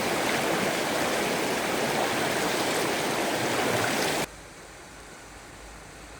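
Stream water rushing, a loud even wash of noise that cuts off abruptly about four seconds in, giving way to a much quieter low hiss.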